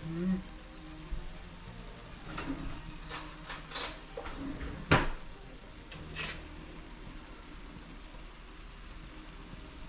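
Sautéed squash cooking in a pot on the stove with a faint steady sizzle, while a spoon stirs and knocks against the pot. There are several clinks in the middle, the sharpest about five seconds in.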